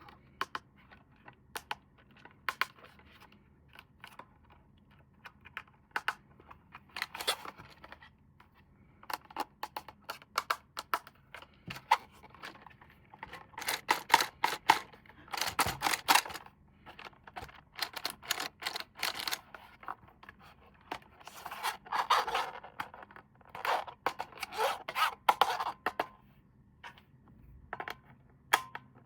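Unboxing handling noise: irregular scraping, rustling and clicking of toy packaging and plastic parts, busiest in the second half.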